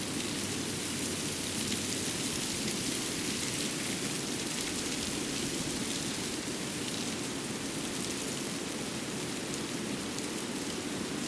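Steady, even rushing ambience of a winter forest after snowfall, with faint light ticks scattered through it, much like rain or dripping.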